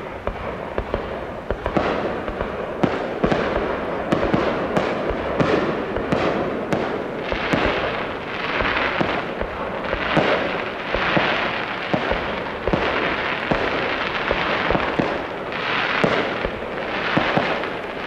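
Fireworks display going off, starting abruptly: a steady run of sharp bangs from bursting shells, often several a second, with repeated hissing crackle swells between them.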